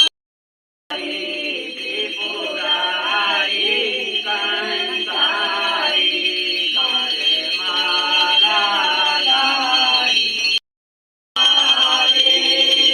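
Devotional hymn singing, a wavering melodic voice line over a steady high-pitched tone. The sound cuts out completely twice for under a second, just after the start and near the end.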